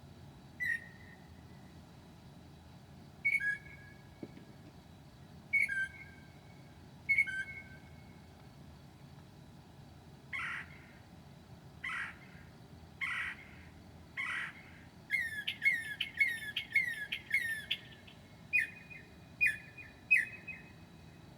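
Northern mockingbird singing in a string of varied phrases with pauses between them: short whistled notes first, then four harsh, rasping calls, then a quick run of repeated notes about two seconds long and three clear notes near the end.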